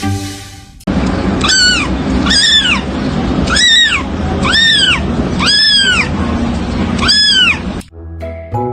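A cat meowing six times in a row, each meow rising and then falling in pitch, over a background hiss. Music plays briefly at the start and again near the end.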